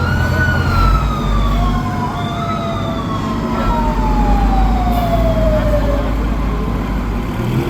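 Fire truck siren wailing: it peaks at the start, rises again briefly about two seconds in, then glides slowly down in pitch until about six seconds in. A truck engine's low rumble runs underneath.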